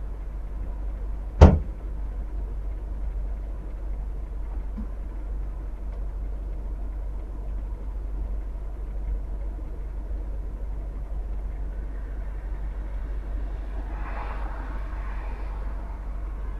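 Steady low car rumble picked up by a dash cam, with one sharp loud thump about a second and a half in, and a brief rustling noise near the end.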